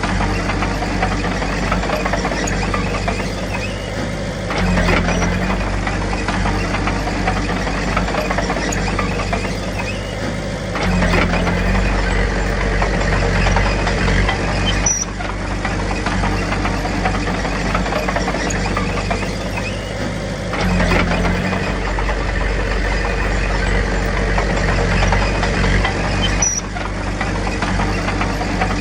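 Komatsu D21P bulldozer's diesel engine running continuously, revving up under load several times as it works.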